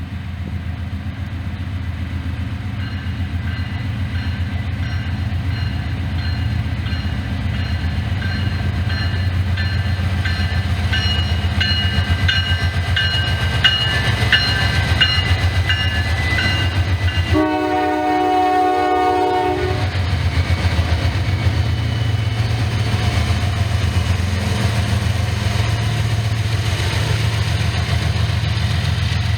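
Norfolk Southern train rolling by with a steady low rumble, thin high-pitched squealing tones over it for much of the first half. Just past halfway the train horn sounds in one blast of about two seconds.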